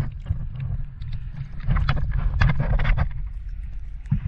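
Water splashing and sloshing around a swimmer at the surface, with many short sharp splashes and a steady low rumble of wind and water on the microphone; the splashing is busiest through the middle.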